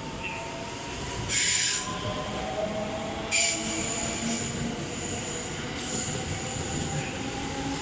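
A 681-series limited express electric train pulling out of the station, its running noise carrying a steady whine, broken by several bursts of high-pitched wheel squeal. The loudest squeal comes about a second and a half in, and another starts about three and a half seconds in and recurs in pieces.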